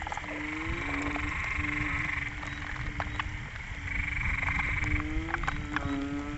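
Breeding chorus of banded bullfrogs calling after rain: many low, moaning calls, each lasting about half a second to a second, overlapping one after another. A higher, steady buzzing chorus swells twice behind them.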